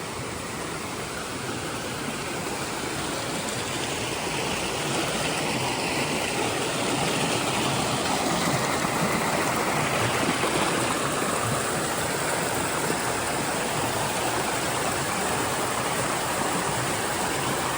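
A mountain brook roaring: a steady rush of fast-flowing water that grows a little louder over the first few seconds, then holds.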